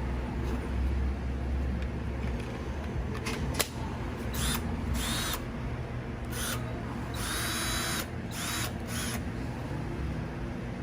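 DEWALT 20V MAX compact cordless drill running, with several short bursts of higher whirring between about four and nine seconds in and a sharp click just before them.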